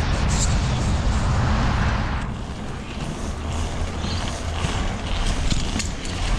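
Wind rushing over the microphone of a moving bicycle rider, a steady noise that eases a little about two seconds in.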